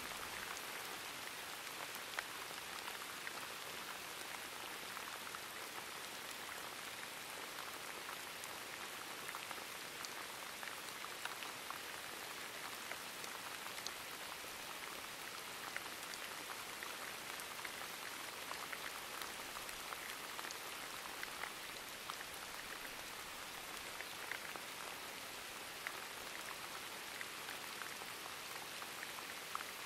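Steady rain, an even patter with scattered single drops ticking through it.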